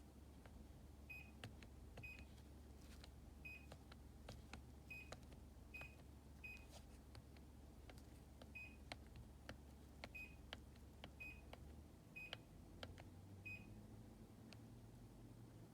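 Daikin air conditioner indoor unit giving about a dozen short, high beeps at irregular intervals, acknowledging remote-control button presses, with faint clicks between them. A low background hum shifts in pitch about twelve seconds in.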